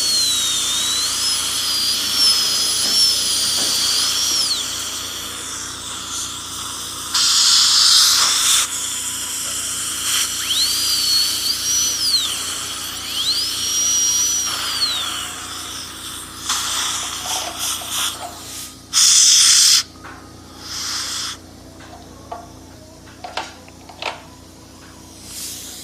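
High-speed dental drill whining in several runs, its pitch dipping and rising as it bites into the tooth. Short loud hissing blasts come between the runs, about a third of the way in and again about three quarters through.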